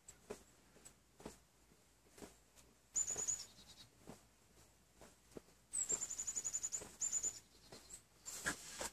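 A small bird calling in two bursts of rapid high-pitched notes, a short trill about three seconds in and a longer one about six seconds in, with faint scattered clicks between.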